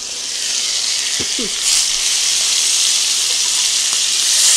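Thin-cut pork chops sizzling in hot butter and oil in a cast iron skillet. The sizzle swells over the first second or two as the lid comes off, then keeps up a steady hiss.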